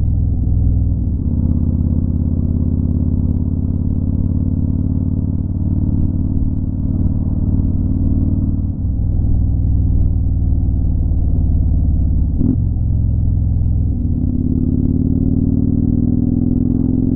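Motorcycle engine running at a steady cruising speed while riding, its pitch rising over the last few seconds as it speeds up.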